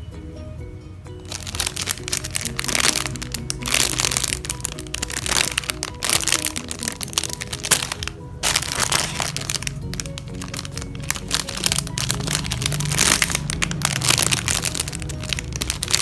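Dense, irregular crinkling and crackling of foam squishy toys being squeezed and handled, over background music.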